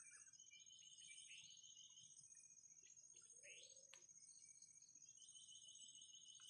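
Faint bird chirps and two short trills over a steady high insect-like whine, with a rising chirp and a single sharp click about halfway through.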